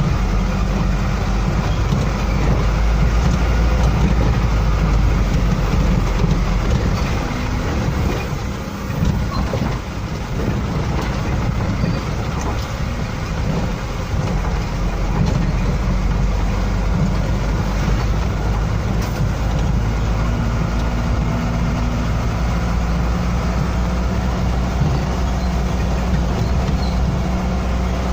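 Heavy truck engine running steadily with a deep rumble, dipping briefly about a third of the way in.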